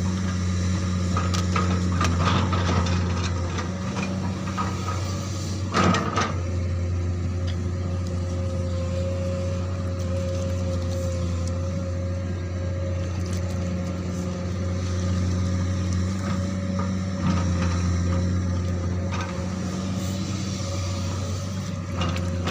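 Komatsu PC200 hydraulic excavator's diesel engine running steadily while working, with a steady higher whine over the engine drone. A sharp knock comes about six seconds in, with a few lighter knocks elsewhere.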